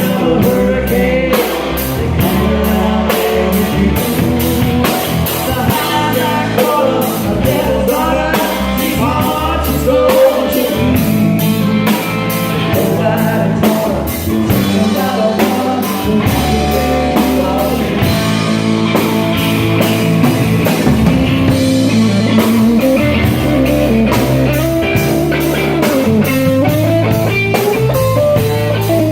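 Rock band playing an instrumental break: a steady drum-kit beat and bass under a melodic lead line, with electric guitar in the mix.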